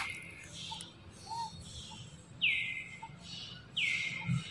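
A bird calling over and over, each call a quick downward slide into a held whistled note. Three calls in all.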